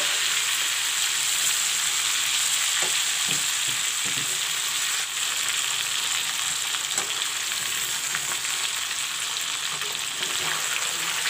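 A whole chicken sizzling steadily in hot mustard oil in a metal karahi, with a few light scrapes of a metal spatula against the pan as the bird is turned.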